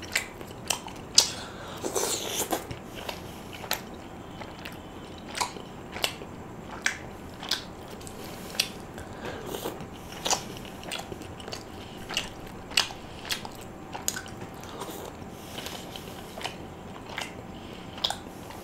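Close-miked eating: chewing with sharp, irregular mouth clicks and smacks, about one or two a second, and a longer, louder mouthful sound about two seconds in.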